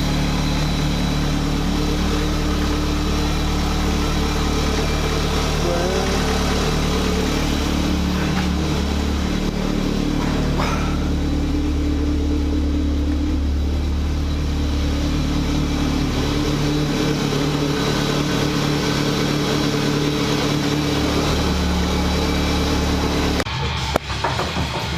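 Rover K-series 1.8 VVC engine idling steadily in a Rover Metro with its gearbox freshly rebuilt. The steady running breaks off abruptly near the end.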